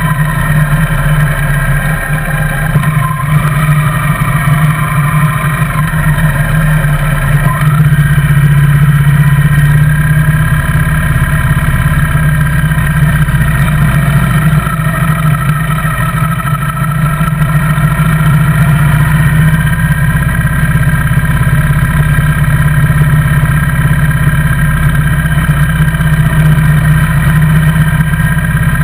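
Motorcycle engine running steadily at low road speed, heard from on the bike, with the engine note shifting and briefly rising about eight seconds in.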